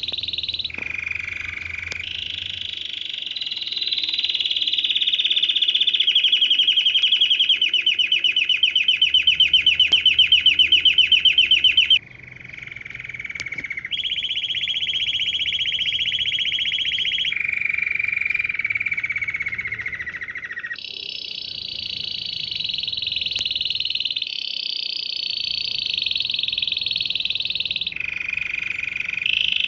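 Domestic canary singing a long, high-pitched song of rolling trills, each held for a few seconds before switching to another trill at a different pitch. It is loudest about a third of the way in, on a fast pulsing trill that breaks off abruptly.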